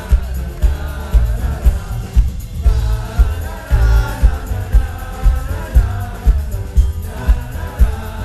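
Live band music with singing over a steady kick-drum beat, about two beats a second.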